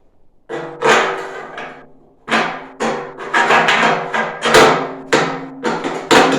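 A hammer striking the steel body of a barrel stove, about a dozen irregular blows. Each blow leaves the metal ringing at several steady pitches, and the blows come faster after the first couple of seconds.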